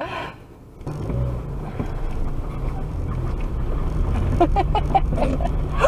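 A vehicle engine running with a steady low rumble that starts about a second in, with brief voices near the end.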